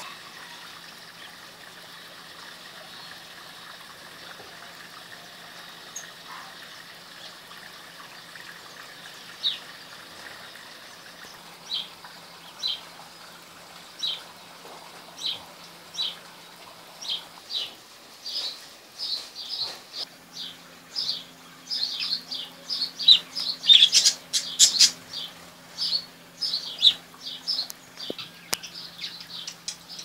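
Small birds chirping: short, sharp, high chirps, sparse at first, then coming several a second and louder in the second half. A faint steady low hum runs underneath.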